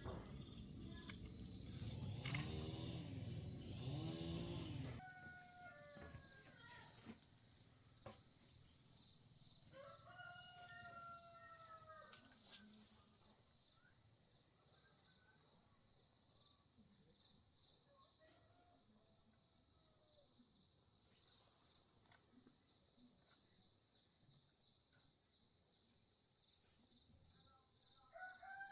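A rooster crowing several times, each crow lasting about two seconds, over a steady high hiss. A louder, indistinct sound fills the first five seconds.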